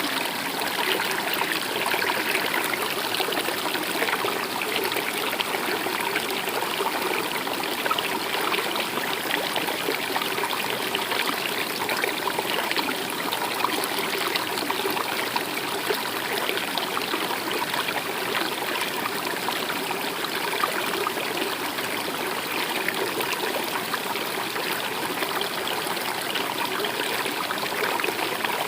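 Stream water running steadily, an even rushing trickle with no pauses.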